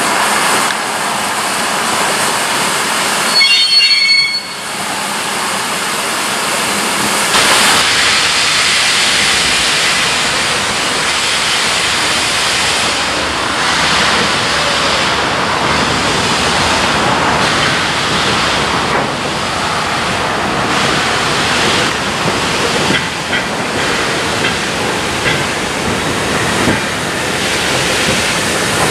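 Steam-hauled train running past, a loud steady rush of wheel and steam noise. About three and a half seconds in comes a brief high-pitched squeal.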